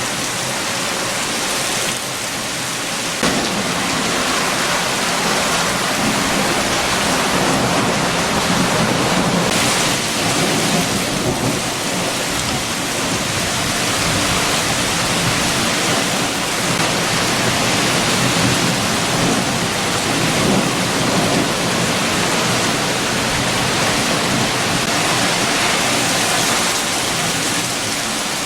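Steady heavy rain with strong wind: a continuous rushing noise that swells and eases slightly, growing a little louder about three seconds in.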